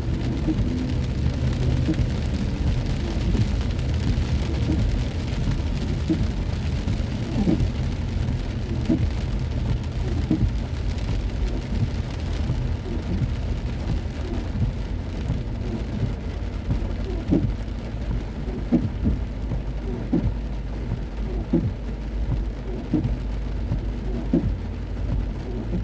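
Heavy rain pelting a moving car, with scattered short knocks of drops over a steady low rumble from the car.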